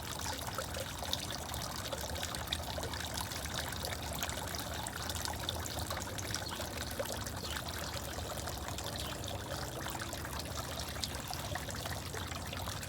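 Garden fountain running, water trickling and splashing steadily.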